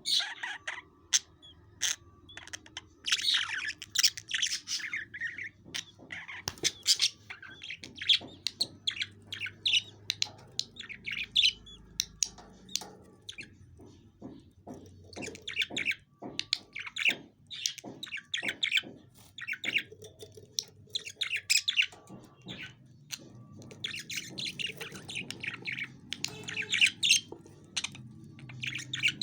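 Budgerigars chirping and squawking in bursts, mixed with many sharp clicks.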